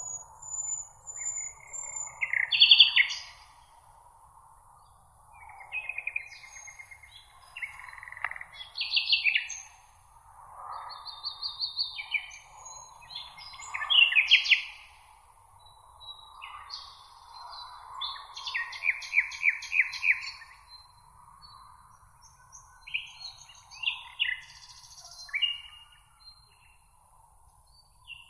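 Songbirds singing short chirps and rapid trills, in bursts a few seconds apart, over a faint steady background hiss.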